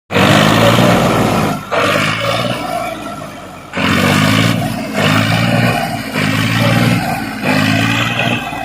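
Tractor engine running loud, surging up and down in repeated waves, with a quieter stretch a few seconds in before it picks up again.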